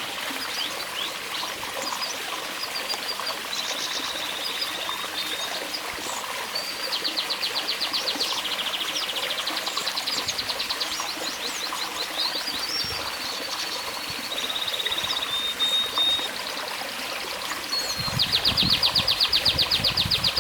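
Domestic canaries singing in long, fast trills of rapidly repeated notes, over a steady trickle of running water. A low rumble comes in near the end.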